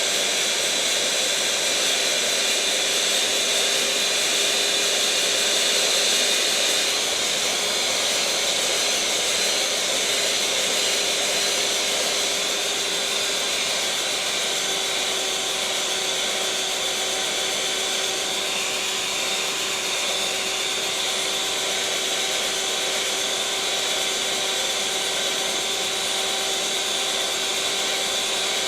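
Electric mixer motor running steadily: an even whirring hum with steady whining tones over it, dipping slightly in level and pitch about halfway through.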